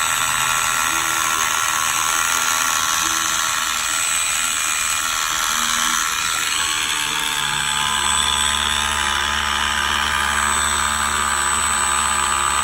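A 540-size electric motor running steadily, whining through 3D-printed plastic miter gears to the outboard's propeller shaft; the tone shifts about seven seconds in, when a low hum comes up.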